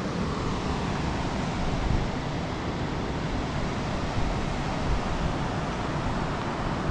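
Steady rushing noise of wind buffeting the microphone, mixed with ocean surf.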